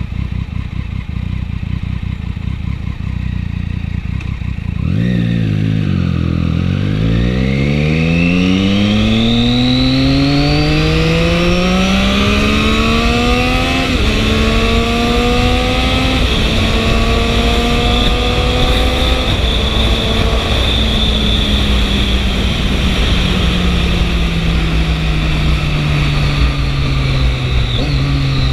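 Triumph 675 inline three-cylinder motorcycle engine accelerating hard from about five seconds in, its pitch climbing through several quick upshifts. It then runs at a steady cruise whose pitch sinks slowly near the end, over a constant rush of wind and road noise.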